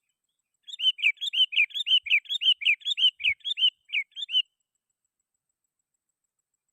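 Sooty-headed bulbul (kutilang) singing a rapid run of short, sharply slurred notes, about four a second, which stops abruptly after nearly four seconds. It is the vigorous challenge song used as a lure to draw other bulbuls into calling.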